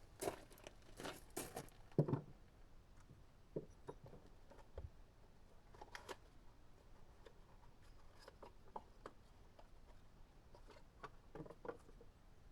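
Scattered light clicks, taps and knocks of small parts being handled by hand, the loudest knock about two seconds in.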